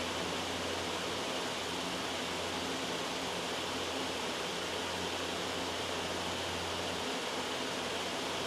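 Steady, loud white noise, an even hiss across all pitches, with a low hum underneath that fades out and returns.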